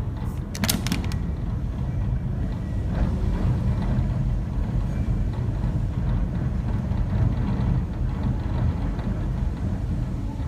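Strong blizzard wind buffeting the microphone: a heavy, uneven low rumble that rises and falls with the gusts. A brief cluster of sharp clicks or rattles comes about half a second in.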